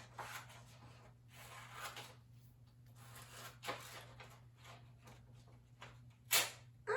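Scissors cutting through a paper worksheet: a string of short, irregular snips and paper rustles, with one louder stroke near the end.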